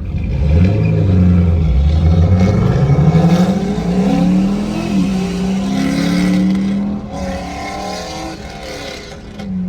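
Audi RS6's engine accelerating: its note climbs steadily for the first few seconds, then holds and wavers, and the sound grows quieter after about seven seconds as the car moves off.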